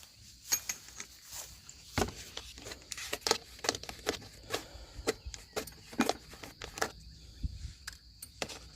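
Irregular light clicks and knocks, a few a second, from handling a plastic bottle of motor oil ready to pour into the engine.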